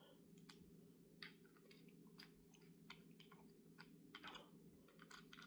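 Faint, irregular clicking of a socket wrench running down the small mounting bolts of an HEI distributor's ignition control module, about two or three clicks a second over a steady low hum.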